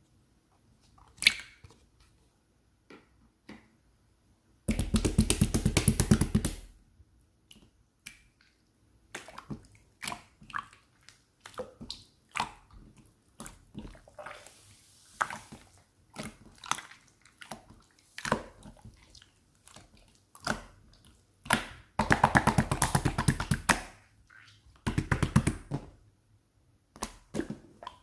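Close, irregular clicks and taps, with three stretches of rapid crackling crunches: a long one about five seconds in, and two more near the end.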